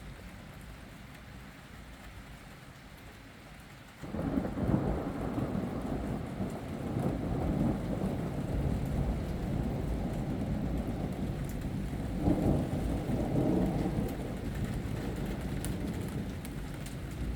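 Steady rain, then about four seconds in a long roll of thunder starts suddenly and rumbles on, swelling again later before easing slightly.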